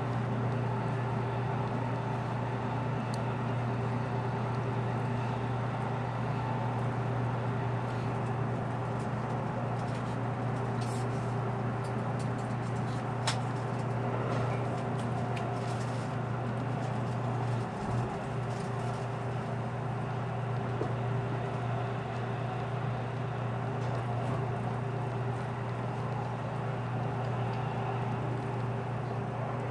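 Running noise inside a JR Kyushu Series 783 electric multiple unit moving at speed: a steady low hum over an even rumble, with a faint steady tone above it. A single sharp click sounds about thirteen seconds in, and a short low knock comes about five seconds later.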